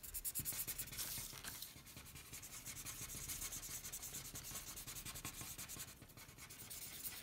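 Felt-tip markers scribbling on paper in quick back-and-forth strokes as a drawing is coloured in.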